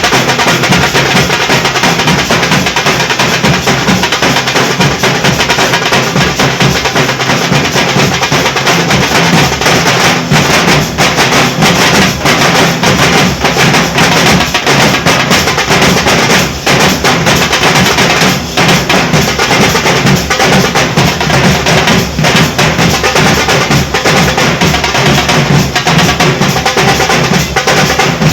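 Nashik dhol drumming: a drum group beating a loud, fast, continuous rhythm with dense sharp stick strokes.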